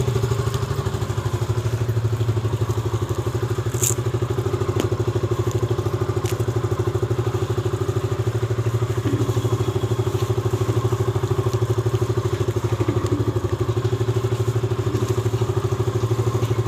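Motorcycle engine idling steadily with a fast, even pulse, left running to warm up after starting. A few light clicks come about four to six seconds in.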